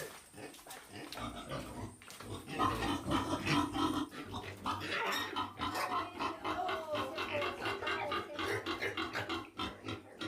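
Wild boars grunting: a rapid, continuous run of short calls that gets louder about two and a half seconds in.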